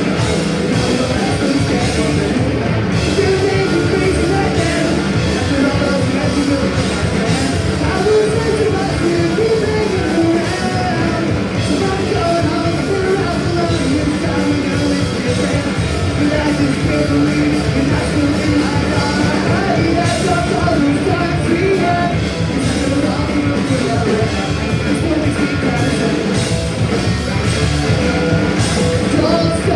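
Live punk rock band playing a fast song at full volume, with a singer over the guitars and drums.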